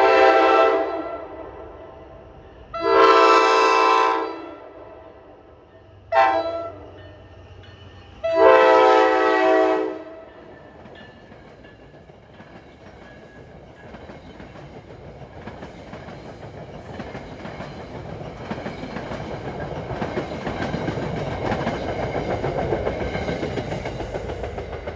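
New Jersey Transit commuter train sounding its multi-note horn in four blasts, long, long, short, long: the standard signal for a grade crossing ahead. The train then passes with a growing rumble and clatter of wheels on the rails that peaks near the end.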